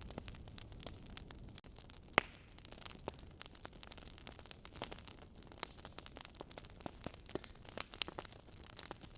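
Wood fire crackling in a fireplace: irregular sharp pops and snaps over a low steady rumble, with one louder pop about two seconds in.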